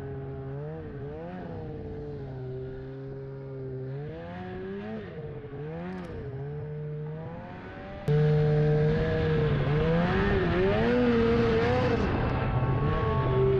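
Snowmobile engine revving up and down as the sled is ridden, its pitch rising and falling with the throttle, with wind noise on the camera microphone. It gets suddenly louder about eight seconds in.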